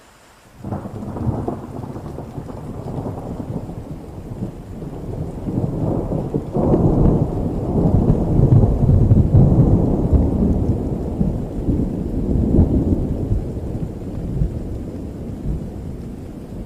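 A long roll of thunder over steady rain: it cracks in suddenly about a second in, rumbles deep and swells to its loudest midway, then slowly fades.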